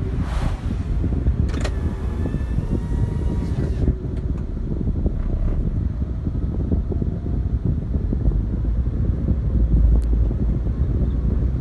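Steady low rumble of a running vehicle mixed with wind noise, with no clear pitch.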